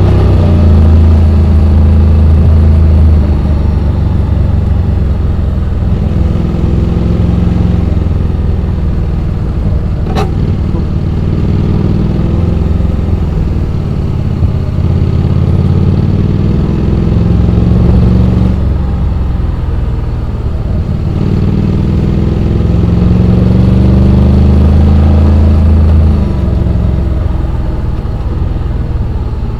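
Honda X-ADV 750's parallel-twin engine running on a downhill ride, its pitch dropping and rising again several times as the throttle is closed and reopened. A single sharp click about ten seconds in.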